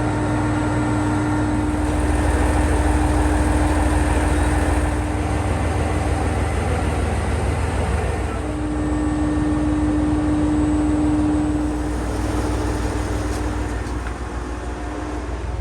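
Diesel railcar running, a loud low drone with a steady hum that fades out for a couple of seconds midway and returns.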